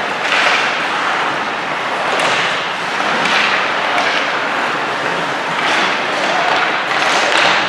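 Ice hockey play on the rink: skates scraping and carving the ice in repeated swells, with a few sharp stick-and-puck knocks.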